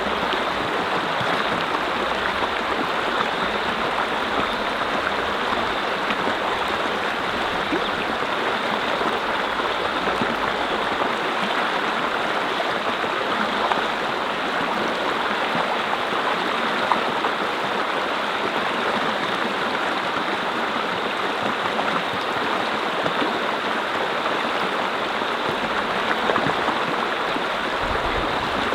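Mountain brook flowing over rocks: a steady rush and babble of water with small splashes.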